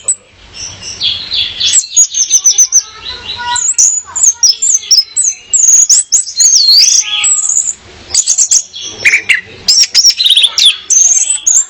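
Female orange-headed thrush singing: a fast, varied run of high whistled notes that sweep up and down, broken by short pauses.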